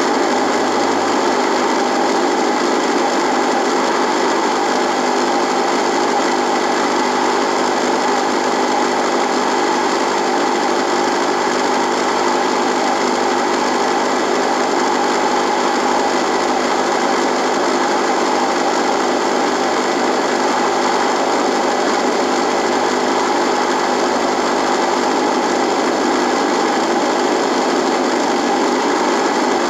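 Radio buzzing: a steady electrical buzz with a static hiss and a few fixed hum tones, unchanging throughout.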